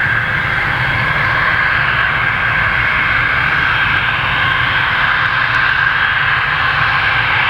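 Rolls-Royce BR710 turbofans of a Bombardier Global Express jet running with a steady, loud rushing whine.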